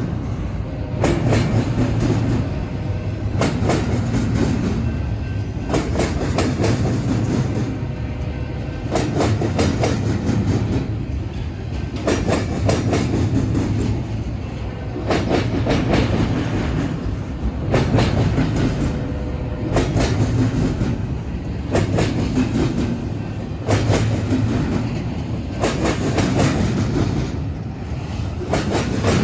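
A BNSF train's cars rolling over a railroad diamond crossing, with a constant rumble. The wheels clack over the crossing in a cluster of hits about every two seconds as each set of trucks passes.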